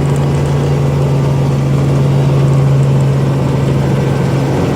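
Helicopter running: a loud, steady drone with a strong low hum.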